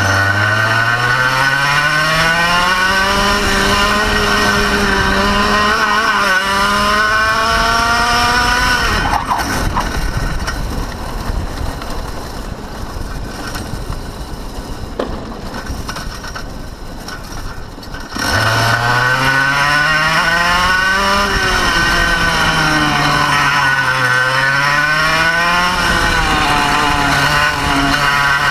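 Kart engine revving up and down on track, then cutting out about nine seconds in and leaving only wind and rolling noise. Roughly nine seconds later it abruptly fires again and revs back up: the engine stalled mid-lap and was restarted.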